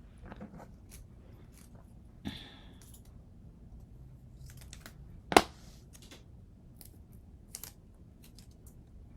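Scattered small clicks, ticks and a brief rustle of hands working foil tape around a glass edge, with one sharp, louder click a little past halfway.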